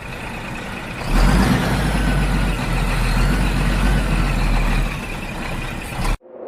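Heavy truck engine running, growing louder about a second in and cutting off abruptly near the end.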